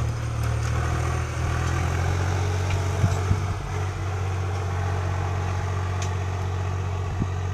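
Tractor engine running steadily with a low, even drone, with a few faint clicks over it.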